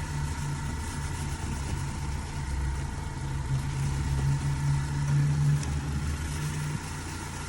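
A car engine idling steadily, a low even hum with a faint steady whine above it.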